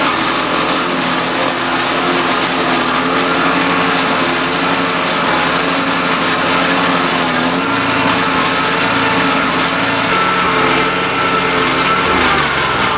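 Wood chipper's 208cc single-cylinder petrol engine running steadily at working speed, then winding down in pitch near the end as it is switched off.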